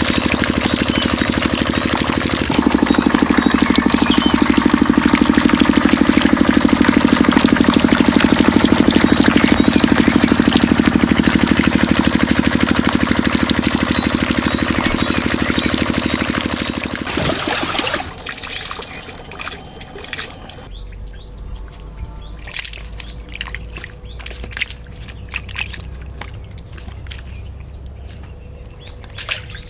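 Small motor driving a mini water pump, running steadily with a fast rattle, getting louder about two and a half seconds in and cutting out about seventeen seconds in. Afterwards water trickles and drips, with scattered clicks and bird chirps.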